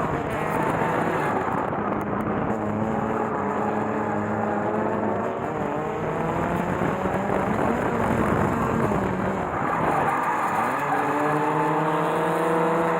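Naturally aspirated drift car engine revving hard, its pitch wavering with the throttle, dipping about ten seconds in and then climbing again.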